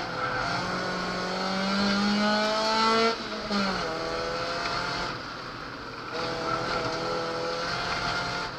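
Naturally aspirated Ford Focus 2.0 four-cylinder petrol engine heard from inside the cabin, rising in pitch under full acceleration for about three seconds, then falling sharply as the revs drop about three seconds in. It runs at a steadier pitch again from about six seconds in.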